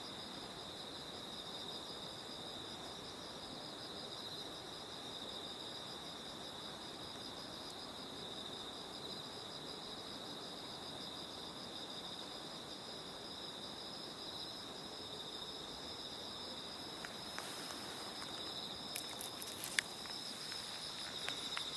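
Autumn-night insect chorus: crickets trilling steadily in two high, slightly pulsing bands over a low background hiss. A few sharp clicks come near the end.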